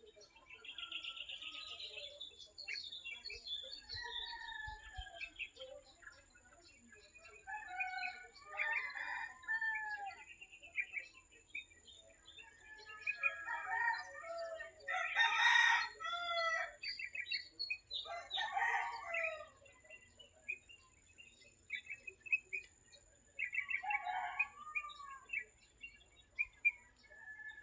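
Small birds chirping and calling back and forth, with a rooster crowing twice about halfway through, the first crow the loudest sound.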